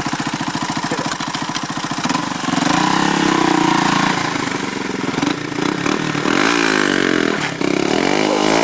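Small motorbike engine running, ticking over evenly at first, then revved up and down over and over from about two seconds in.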